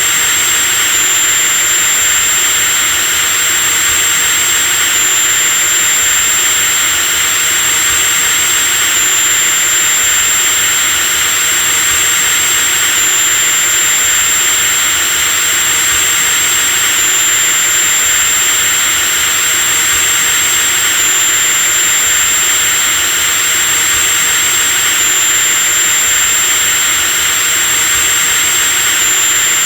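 Electric drill running continuously: a steady high-pitched whine over motor hiss, with a slight step in pitch about every four seconds.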